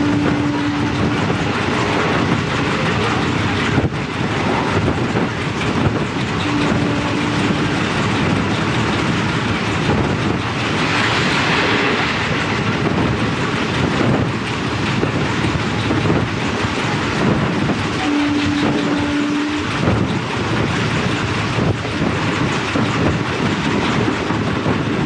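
Express train running at speed behind a WAP-4 electric locomotive: steady rumble and clickety-clack of the wheels on the track. A short, steady horn note of about a second sounds at the start, about seven seconds in, about eighteen seconds in and again at the end. A brief rush of hiss swells about eleven seconds in.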